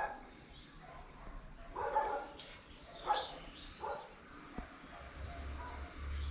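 A dog barking, about four short barks a second or so apart.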